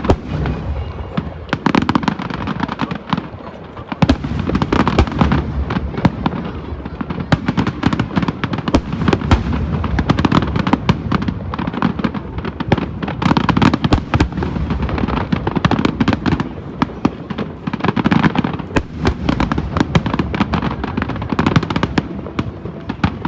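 Large aerial fireworks display: a dense, unbroken barrage of shell bursts and crackling, with a steady low rumble underneath.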